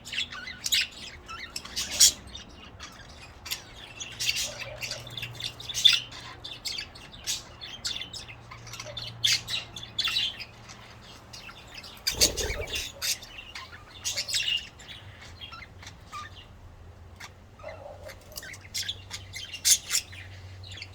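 Budgerigars chirping and chattering in many short, irregular high calls, with one dull thump about twelve seconds in.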